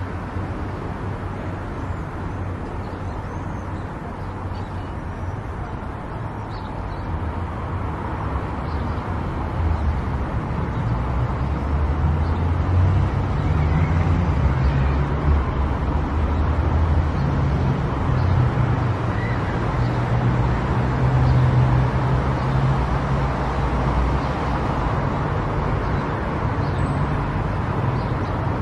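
Car driving at highway speed: steady road and tyre noise with a low rumble, which grows louder about ten seconds in.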